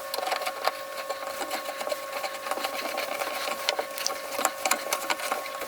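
Metal shower fittings clicking and scraping as a part is threaded on and tightened by hand, with a steady high hum in the background.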